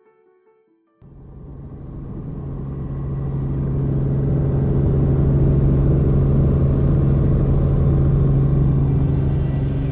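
Helicopter running: a steady low engine tone with a fast rotor rumble. It starts suddenly about a second in, swells over a few seconds and then holds steady.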